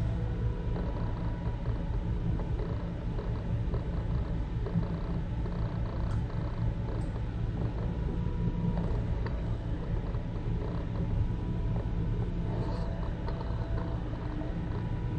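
Interior of a BART rapid-transit train car in motion: a steady low rumble from the wheels and running gear, with a faint whine and occasional small clicks and creaks from the car.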